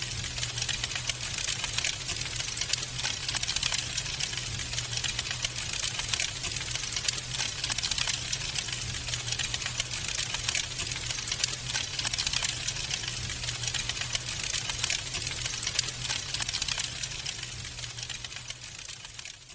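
Wood fire in a fireplace crackling: a dense, steady stream of small pops and snaps over a low steady hum. It fades down near the end.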